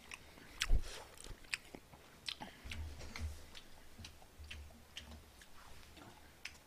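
A person chewing a mouthful of food close to the microphone, with many small mouth clicks and a few soft low bumps.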